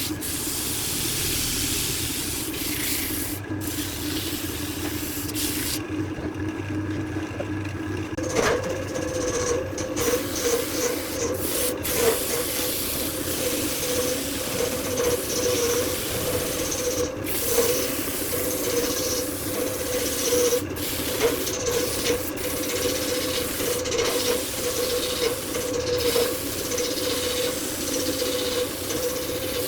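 Woodturning lathe running, with a steady rubbing noise from the spinning workpiece. The motor's hum steps up in pitch about eight seconds in and then holds steady, with occasional sharp ticks.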